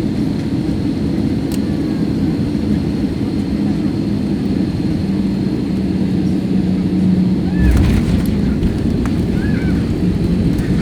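Cabin noise inside an AirAsia airliner: a steady rumble of engines and airflow with a steady hum, and a heavier low rumble with a few knocks about three quarters of the way through.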